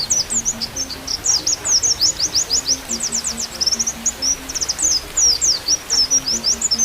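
White-eye (pleci) singing a fast, continuous twittering song of quick downslurred chirps. Under it runs a soft, low flute melody.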